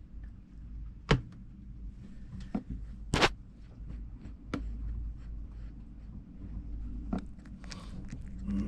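A low steady hum with a few sharp knocks and clicks, the loudest about one and three seconds in.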